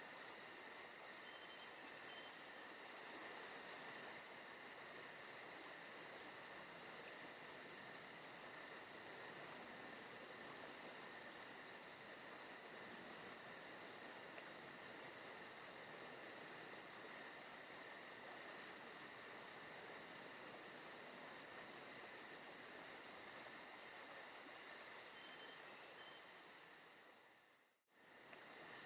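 Faint forest ambience of crickets and other insects trilling steadily in a fast, even pulse. It fades out briefly about a second before the end and comes straight back, like a loop point in the ambience track.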